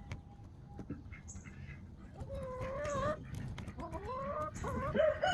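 Chickens calling: a few faint ticks and clucks, then from about two seconds in several drawn-out, wavering calls that get louder toward the end.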